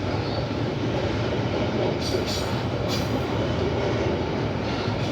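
Freight train of flatcars rolling past with a steady, heavy rumble of wheels and cars. Two brief high-pitched wheel screeches come about two and three seconds in.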